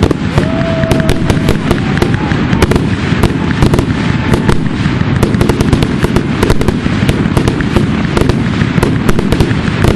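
Fireworks grand finale: a rapid, continuous barrage of overlapping bangs and crackles over a constant low rumble, with no pause.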